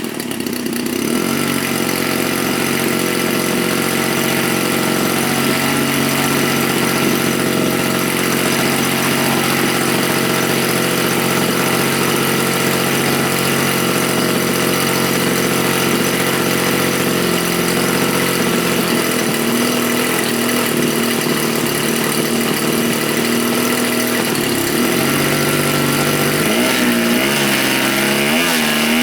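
Small gas engine of a radio-controlled model Stearman biplane running on its first engine run. It runs steadily, settles lower partway through, then its pitch swings up and down near the end as the throttle is worked.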